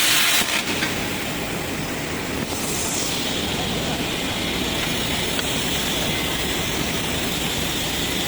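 CNC plasma pipe-cutting machine: the plasma cutting hiss cuts off about half a second in, and steady machine running noise follows, with a short hiss about two and a half seconds in.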